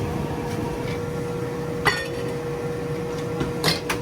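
Two clinks of dishes or utensils, a sharp ringing one about two seconds in and a short clatter near the end, over a steady hum and constant market background noise.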